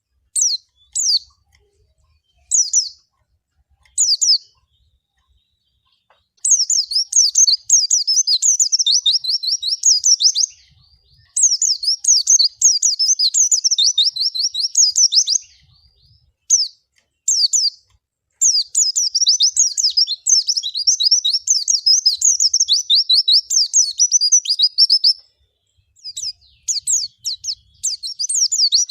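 White-eye (pleci) song: a few short separate chirps at first, then long runs of rapid, high twittering of several seconds each, with short pauses between.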